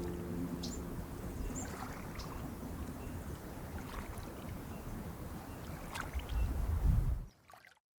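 Outdoor ambience of moving water, with a few faint, short high sounds over it. A low wind rumble swells on the microphone near the end, and then everything cuts off abruptly about seven seconds in.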